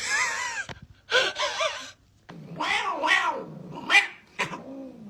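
A cat meowing four times, drawn-out calls that waver up and down in pitch, with a sharp tap about four seconds in.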